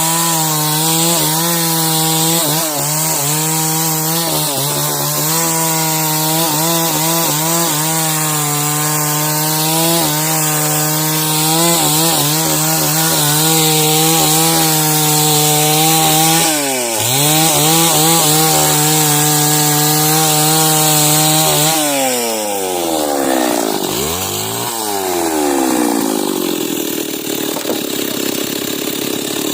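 Chainsaw running at full throttle while cutting timber lengthwise into beams, its pitch wavering under load. About two-thirds through the engine dips briefly and recovers, and near the end the throttle is let off so it drops toward idle, with a quick rev up and back down.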